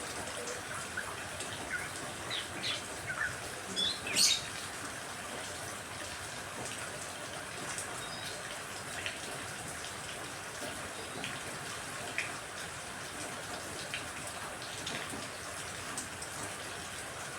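Steady rain hiss with small birds chirping over it in short, scattered calls; the loudest chirp comes about four seconds in.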